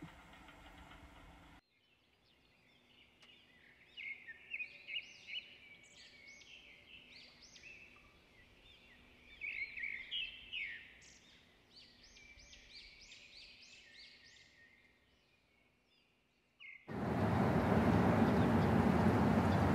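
Birdsong: a small bird singing a long run of quick chirps and short trills. About seventeen seconds in, it is cut off by a sudden loud, steady rush of noise.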